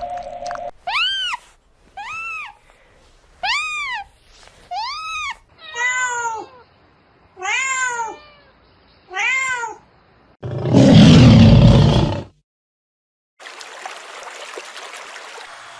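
A cat meowing about seven times, roughly a second apart, each call rising and then falling in pitch, the later calls lower and fuller. Then a loud, harsh, noisy burst lasting about two seconds, followed after a short gap by a faint steady hiss.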